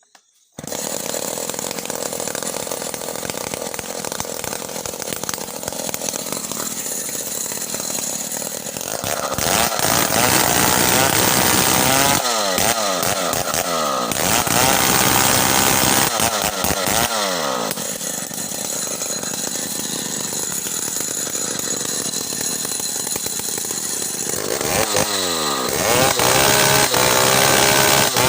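Stihl 070 chainsaw's two-stroke engine starting up abruptly, running steadily, then under heavier throttle while sawing timber into boards, its pitch sagging and recovering several times as the chain works in the cut.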